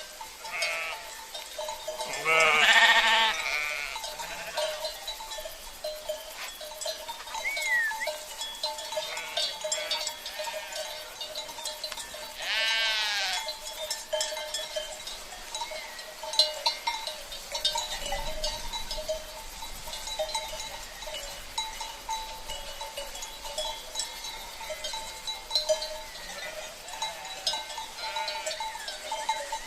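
A flock of sheep bleating, with two loud bleats about 2 and 12 seconds in and fainter ones between, over the steady clinking of livestock bells (cencerros).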